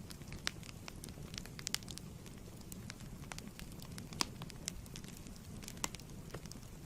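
Fireplace fire burning with a steady low rumble and irregular sharp crackles and pops, a few louder snaps about four and six seconds in.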